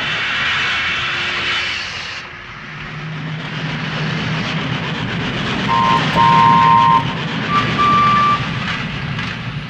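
Steam locomotive sound effect: a burst of steam hiss, then a steady running rumble, with the two-note whistle blown about six seconds in and again, shorter and higher, about eight seconds in.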